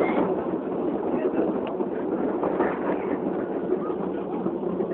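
Steady rumble of an open-air passenger train running along its track, heard from on board, with faint voices mixed in.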